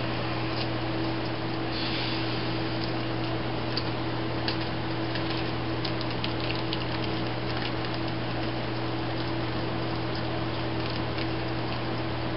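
Steady machine hum with an even hiss, unchanging throughout, with faint light clicks now and then.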